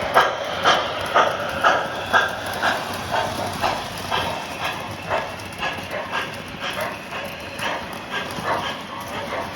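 K-Line Trainmaster model diesel locomotive and train running on model track: a steady rumble with a regular clicking rhythm about twice a second.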